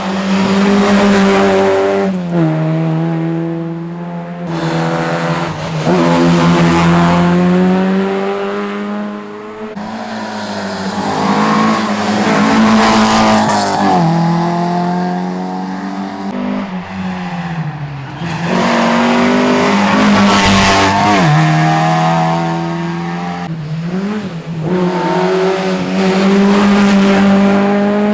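Historic rally car engine driven hard on a closed special stage, revving up and dropping back at each gear change, over and over, with tyres squealing through corners.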